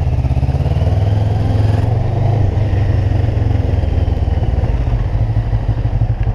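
Honda CB500 parallel-twin engine running at low revs as the motorcycle pulls away and rides off, the pitch rising a little in the first two seconds and then holding steady.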